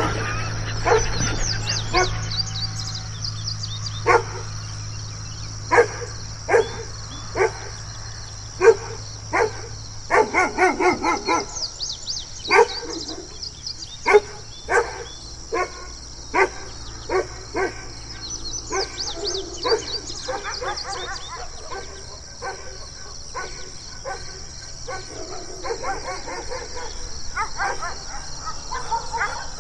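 Dogs barking aggressively: short, separate barks at irregular intervals, with a quick run of them about ten seconds in. A steady high-pitched chirping goes on in the background.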